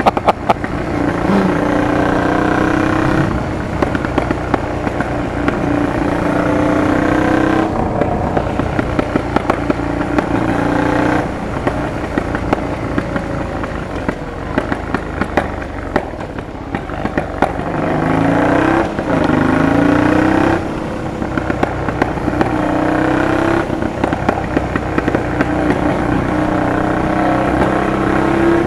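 Honda Transalp PD06 V-twin running loud through an aftermarket MIG exhaust. Its revs hold steady for a few seconds at a time and then drop and climb again, with repeated sharp exhaust pops and crackles. The backfiring is the sign of cracked rubber intake manifolds letting extra air into the engine.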